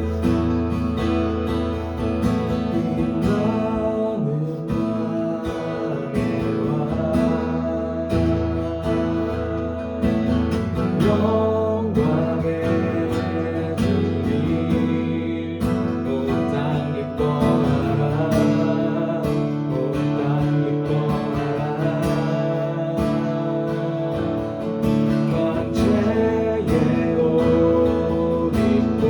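Acoustic guitar strumming chords as worship-song accompaniment, with sustained low notes underneath.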